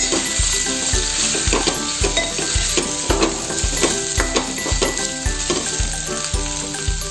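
Spiny gourd, okra and onion sizzling in hot oil in an aluminium pot while a spoon stirs them, scraping against the pot. Background music with a steady beat of about two a second plays over it.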